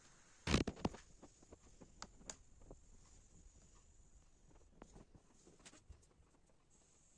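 Handling sounds: a quick cluster of knocks and clicks about half a second in, then scattered light clicks, over a faint steady hiss.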